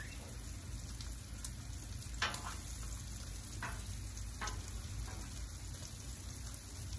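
Bacon and sausage patties sizzling steadily on a hot Blackstone flat-top griddle, with a few short clicks between about two and four and a half seconds in.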